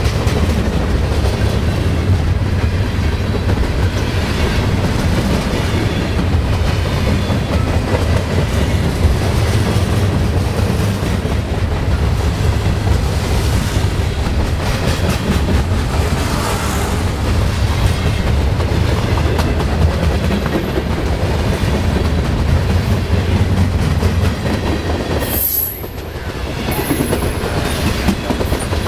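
A freight train's cars rolling past at close range: a steady, loud rumble of steel wheels on the rails. Near the end there are brief high-pitched wheel squeals.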